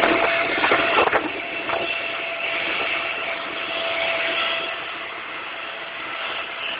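A rescue helicopter running close by, heard through a phone microphone: a steady rushing noise with a constant whine. Several knocks come in the first two seconds, and the whine stops and the noise eases about two thirds of the way in.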